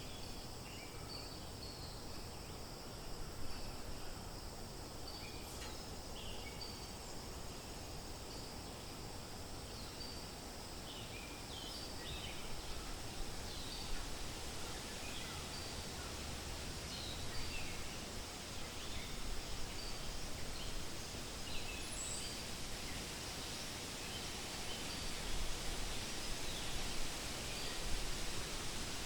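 Forest ambience: wind rustling through leaves as a steady hiss that swells a little partway through, with scattered short bird chirps throughout.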